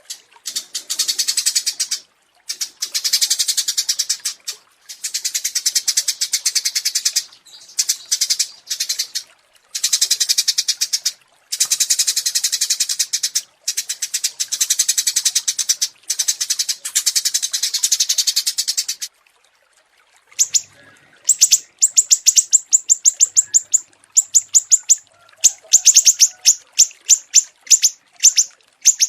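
Recorded songs of small songbirds: for about nineteen seconds, loud bursts of very rapid, high trilled notes separated by short pauses; then, after a brief gap, a different song of sharp high chirps in quick runs, repeated about once a second.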